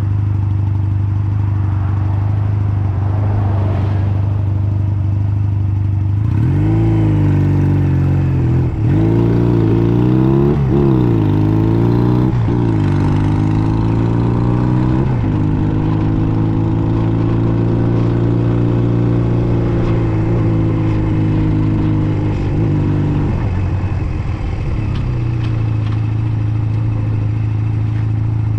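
Honda Nighthawk 250's air-cooled parallel-twin engine running at a steady low idle, then pulling away about six seconds in: its pitch climbs and drops three or four times as it is shifted up through the gears. It holds a steady cruising note for several seconds, then falls away near the end and settles back to the idle pitch.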